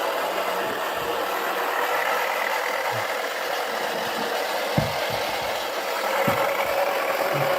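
Toy washing machine running with a steady whirr, with a couple of light knocks during the second half.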